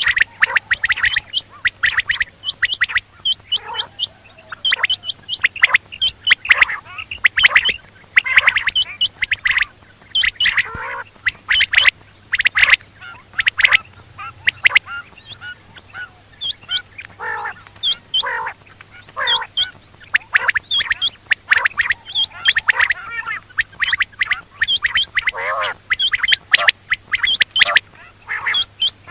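Quail calling: a dense, continuous run of short, harsh calls, several a second.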